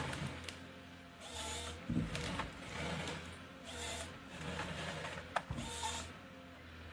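Forestry harvester at work: a steady low engine hum with repeated bursts of noise about once a second and a few sharp clicks, as the head handles and cuts the timber.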